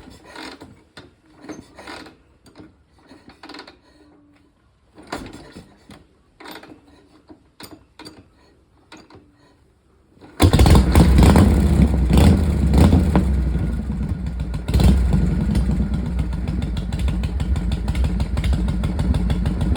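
Harley-Davidson Shovelhead V-twin engine starting up about halfway through, after some scattered clicks and knocks, then running with an even pulsing beat. Its level steps up again a few seconds after it starts.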